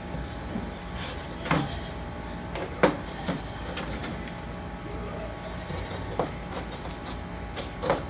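A few separate clicks and knocks of hydraulic pump parts and tools being handled during a teardown, over a faint steady hum.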